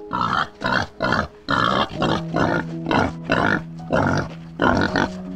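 An animal calling in a quick series of short, rough calls, about two to three a second, over soft background music with long held notes.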